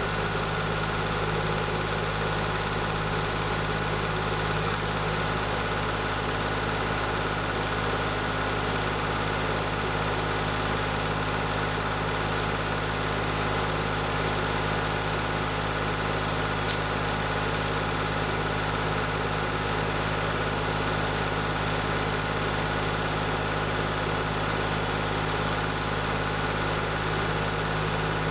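An engine running steadily at an even speed, a constant mechanical hum that does not change.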